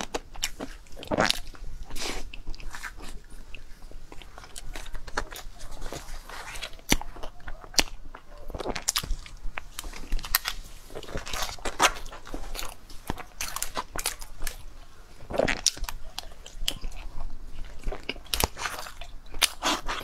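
A person eating close to the microphone: biting, chewing and smacking, with irregular crunchy clicks coming several times a second.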